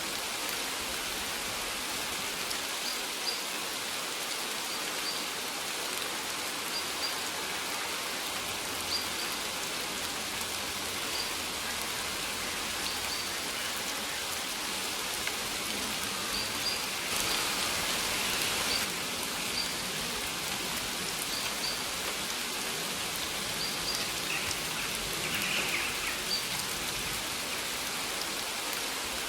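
Steady rain falling, an even hiss with scattered drops. It swells briefly a little past the middle.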